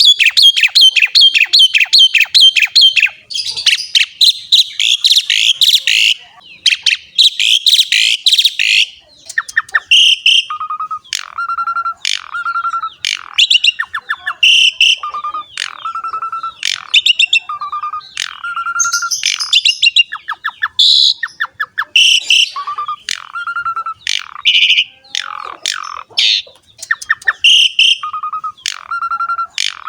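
Asian pied starling (jalak suren) in continuous full song. For about the first nine seconds it gives a fast run of repeated harsh notes. After that, chattering bursts of sharp notes alternate with a short level whistle that recurs every second or two.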